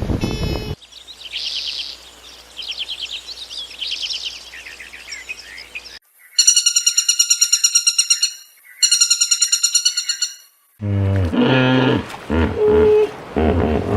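A string of animal calls: high bird chirps, then two bursts of a fast, high-pitched pulsing trill, then lower calls that rise and fall in pitch near the end.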